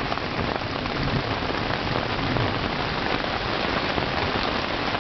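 Heavy rain pouring down, a dense, steady patter of drops on a surface.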